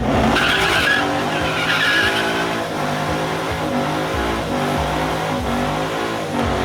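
A Mustang doing a burnout, its engine held at high revs with the pitch rising and dipping again and again, while the rear tyres squeal. The squeal is loudest in the first two seconds or so.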